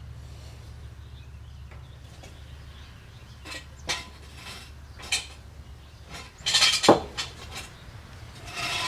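Metal hand tools clinking and clanking as they are handled, a few separate knocks with the loudest a little before the 7-second mark, over a steady low hum.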